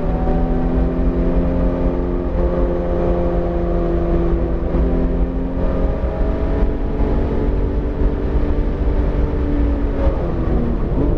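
BMW E46 M3's S54 straight-six, a newly built engine still being broken in, pulling hard through a track lap as heard from inside the car. The engine note rises and eases in long gentle sweeps with a drop about ten seconds in, over heavy road and wind noise.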